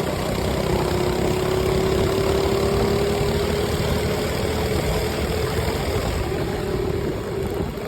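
Minibike engine running steadily at an even speed: a rough low rumble with a steady whine on top that barely changes in pitch.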